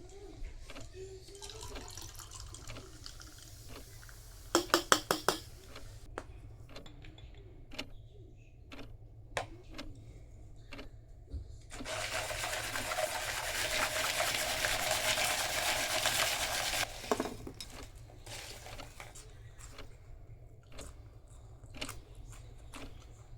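Tableware handling at a meal: scattered light clicks and a quick run of about six sharp knocks, then a steady rush of running liquid for about five seconds that cuts off suddenly, followed by a knock.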